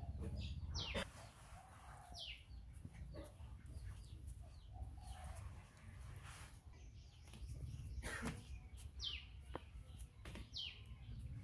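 Bird calls: about five short, high chirps, each sliding sharply downward, spaced irregularly over a faint low rumble.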